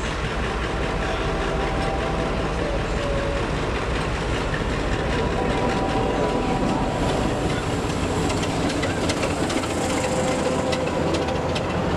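A diesel locomotive runs a passenger train into the platform. Its engine note is steady, and from about nine seconds in the coaches roll past close by, with their wheels clicking rapidly over the rail joints.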